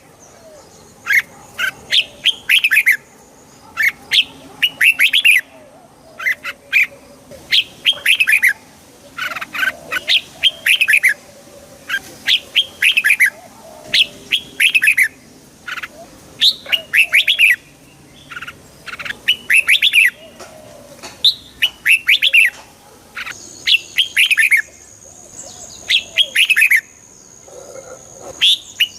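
Red-whiskered bulbul singing: short, lively phrases of a few quick whistled notes, repeated every second or two.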